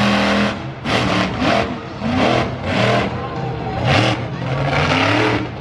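Monster truck engine revving hard in about half a dozen quick throttle bursts, its pitch rising and falling with each one.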